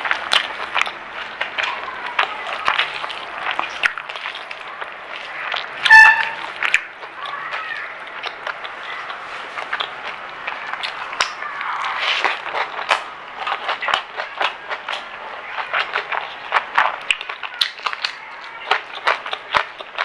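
Close-miked chewing and crunching of crispy food, a steady run of small irregular crackles and mouth clicks. About six seconds in comes one sharp, loud clink with a brief ring.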